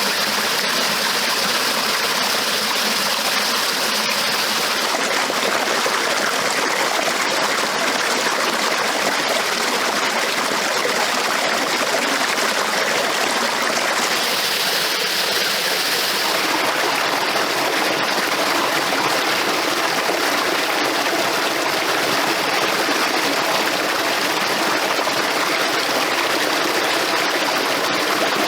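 A stream's flowing water, a steady rushing and trickling.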